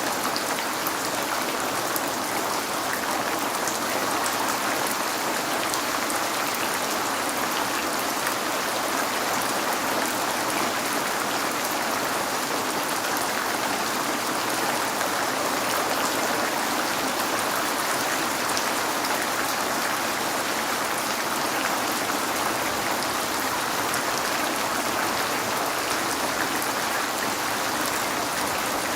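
Steady rain falling on a window: an even, unbroken hiss with faint scattered drop taps.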